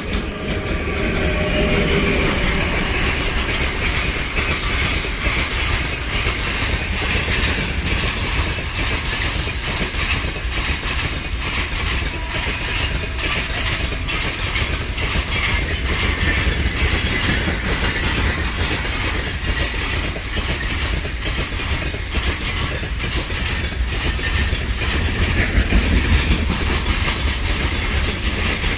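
Freight train hauled by a 2ES5K electric locomotive passing at speed, getting louder over the first two seconds. The wagons' wheels then clatter over the rail joints in a steady rumble of rapid clicks.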